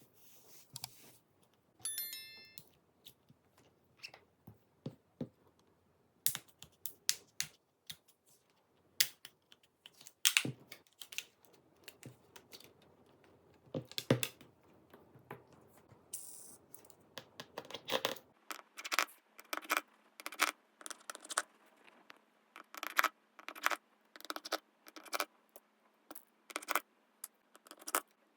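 Small sharp clicks and taps of hand tools and phone parts being handled during a phone repair, scattered at first and, from about two thirds in, a fairly regular run of taps about two a second. A short high beep sounds about two seconds in.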